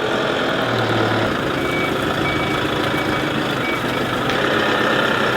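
A working vehicle's engine running steadily, with a short high warning beep repeating about four times, under a second apart, like a reversing alarm.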